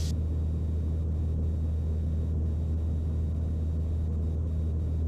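Mooney M20C's four-cylinder Lycoming engine and propeller droning steadily in flight, heard from inside the cockpit as a low, even hum.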